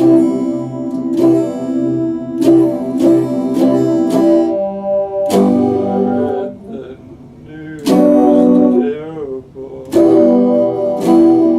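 Epiphone Les Paul Special II electric guitar strumming chords, each strike ringing on, with a quieter, sparser stretch about six to eight seconds in before the strumming comes back strongly.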